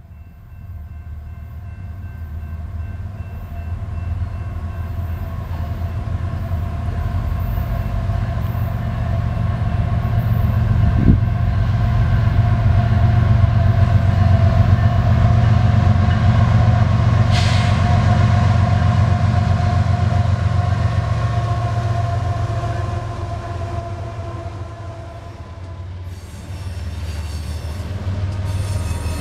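BNSF diesel freight locomotives approaching under power: a deep engine rumble that swells to its loudest about halfway through, with the horn sounding in long held tones. Near the end the horn stops and the rattle and rush of the wheels and autorack cars take over.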